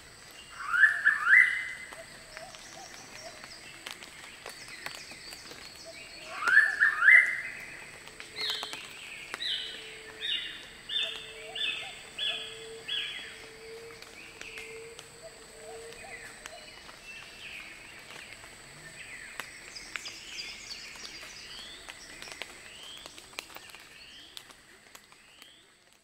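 Noisy pitta giving its three-note 'walk-to-work' whistle twice, each note rising, about a second in and again around seven seconds in. A run of about seven shorter, evenly spaced notes follows, then fainter bird calls, over a steady high-pitched tone.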